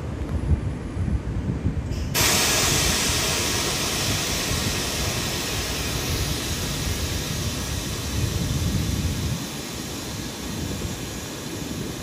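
Electric passenger train on the line: a low rumble, then a sudden loud steady hiss of the moving train about two seconds in, slowly fading away.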